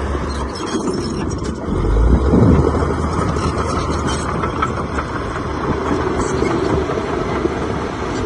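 Heavy machinery engine running steadily under work, with a brief louder surge about two seconds in.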